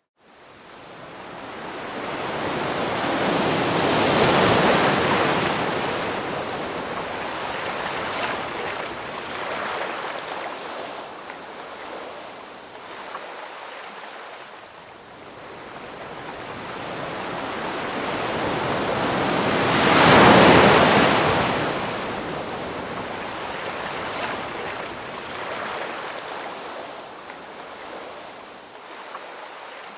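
Ocean waves washing in and breaking, fading up from silence at the start. One swell peaks a few seconds in, and a louder one breaks about two-thirds of the way through, with a steady wash of surf between.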